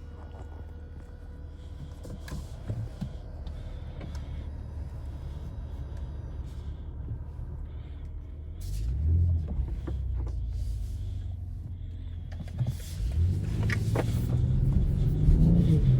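BMW X6 40i's turbocharged inline-six and road noise while driving: a steady low rumble, with the engine note rising briefly about nine seconds in and climbing again from about thirteen seconds as the car accelerates, growing louder toward the end.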